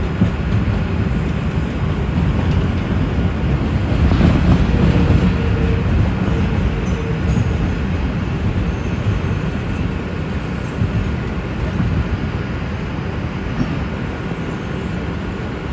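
NYC Subway R142 train running along the track: a steady, continuous rumble of wheels and running gear.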